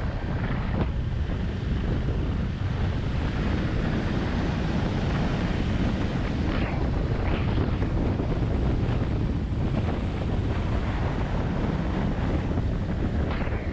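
Steady wind rush buffeting the microphone of a camera on a moving motorcycle.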